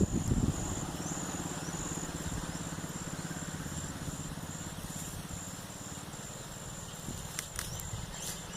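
Crickets chirping steadily in a high, evenly pulsing trill over a low background hum, with a few sharp clicks near the end.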